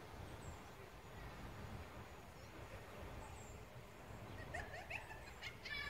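Faint outdoor ambience: a low, even rumble, with a few short rising bird calls about four and a half seconds in.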